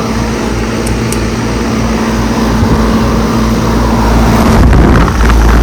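Central air conditioner condensing unit running: a steady hum from its scroll compressor under the whoosh of its condenser fan. Near the end a heavy low rumble of wind on the microphone covers it.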